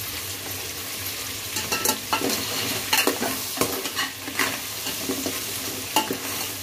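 Crab pieces and ground spices sizzling in hot oil in an aluminium pot while a metal ladle stirs them, with irregular scrapes and knocks of the ladle against the pot under a steady sizzle.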